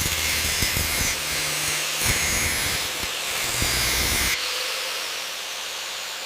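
Steady hissing noise with scattered knocks and clunks for about the first four seconds, then the hiss alone, somewhat quieter.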